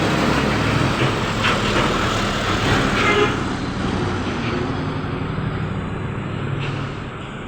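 Roadside traffic: a passing truck's engine and tyre noise, loudest in the first three seconds and then fading as it moves away.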